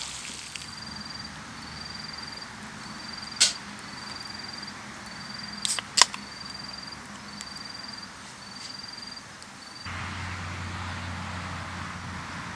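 An insect chirping in a steady rhythm, a high chirp a little over once a second, with three sharp snaps in the middle. Near the end a low hum and a hiss come in suddenly.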